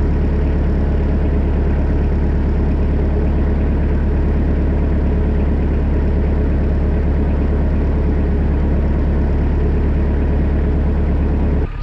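Kubota B3000 compact tractor's diesel engine running steadily at a constant speed, with a strong low hum; it cuts off abruptly near the end.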